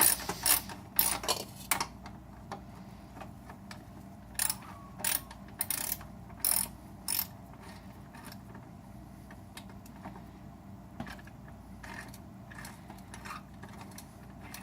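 Socket ratchet clicking in short runs as a small bolt on the A/C drier bracket clamp is loosened. The clicks come in the first two seconds and again from about four and a half to seven seconds in, then only a few faint taps.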